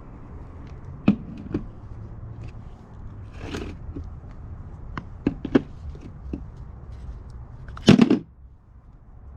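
A few sharp knocks and clatters of objects being handled, the loudest about eight seconds in, over a low steady rumble.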